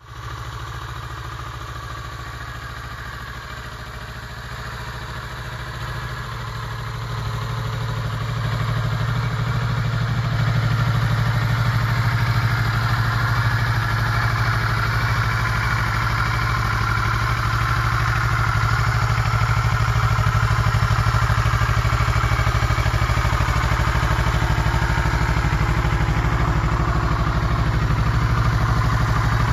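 2012 Kawasaki ER-6n's parallel-twin engine idling steadily. It grows louder over the first ten seconds or so, then holds level with no revving.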